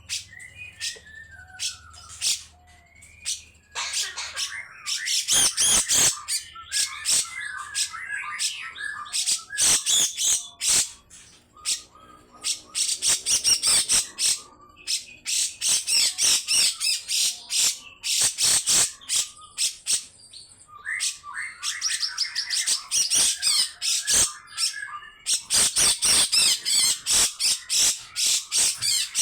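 Grey-cheeked bulbul (cucak jenggot) giving long, harsh rasping calls, fast runs of scratchy notes mixed with some warbled phrases, in several bouts with short breaks.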